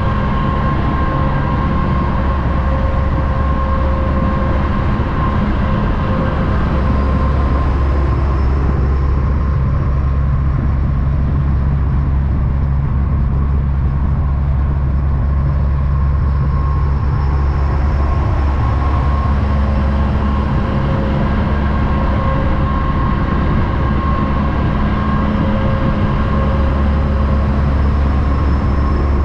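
A heavy vehicle running at a steady pace: a deep, unbroken drone with a few steady whining tones over it, holding the same loudness throughout.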